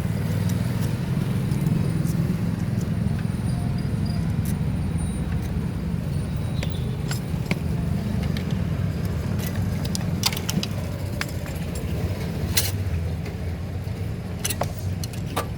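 Steady low rumble of a motor vehicle engine running, with scattered sharp metallic clinks of tools and engine parts being handled.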